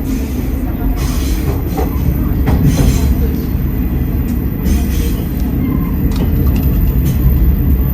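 Train running on the rails, heard from inside a carriage: a steady low rumble with irregular clicks and knocks from the wheels and track.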